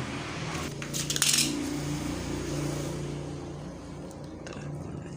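Light metallic clicks and clinks of the mini rotary tool and its small metal parts being handled, a cluster of them about a second in, over a faint low steady hum.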